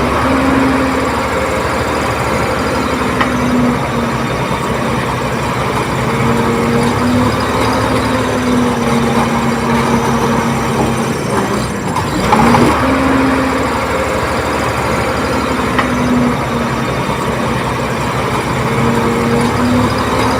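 Komatsu D30P bulldozer's diesel engine running steadily under work, with a humming tone that fades in and out. There is a brief louder surge about twelve seconds in.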